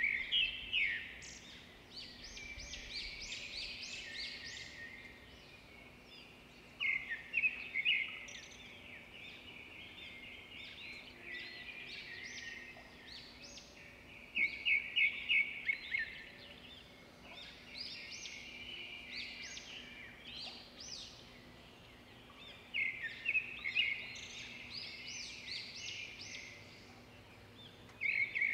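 Small birds chirping in repeated bursts of quick high notes, with a few seconds between bursts, over a faint steady low hum.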